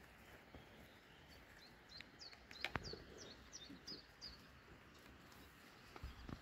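Faint outdoor background with a bird chirping: a quick run of about seven short, high notes in the middle, with a few soft clicks among them.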